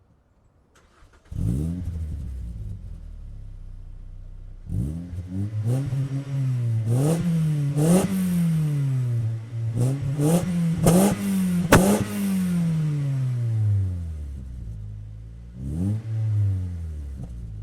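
Mazda 3 with an aftermarket exhaust system starting up about a second in and idling, then revved repeatedly in quick blips, each rise and fall in pitch, before dropping back to idle, with one more short rev near the end.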